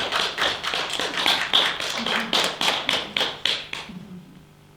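A small audience clapping after a poem, with individual claps audible, dying away about four seconds in.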